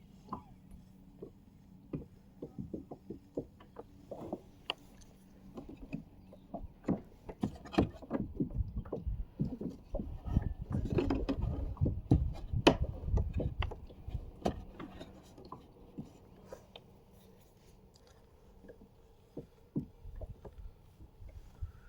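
Knocks, clicks and rubbing from handling things aboard a kayak, scattered at first, then dense with a low rumble through the middle, then sparse again.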